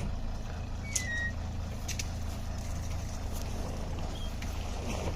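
Truck engine running steadily with a low rumble, and a short high chirp about a second in, along with a few faint clicks.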